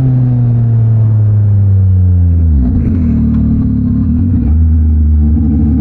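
Yamaha MT-09 SP's three-cylinder engine running through a Mivv X-M50 exhaust, heard from the rider's seat. The engine note sinks gradually, drops sharply about two and a half seconds in, then holds steady at a lower pitch.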